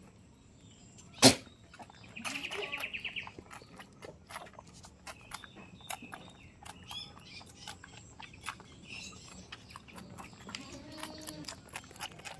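Goats in a pen: one loud sharp knock about a second in, scattered clicks and shuffling throughout, a short high-pitched call a couple of seconds in, and a goat bleat near the end.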